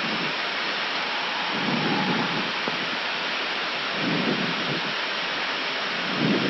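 Steady rushing cockpit noise of an Airbus A319 on final approach with gear and flaps down: an even hiss of airflow and air conditioning, with a low rumble that swells about every two seconds.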